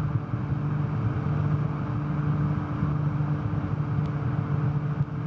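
Steady rumbling noise with a constant low hum running under it.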